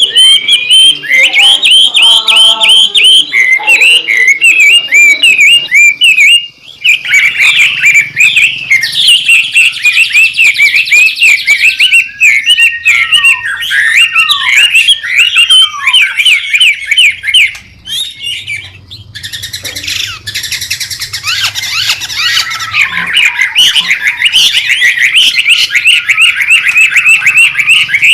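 White-rumped shama (murai batu) singing a loud, busy song of rapid, repeated chattering notes. The song drops off briefly about six seconds in and again for a moment past the middle.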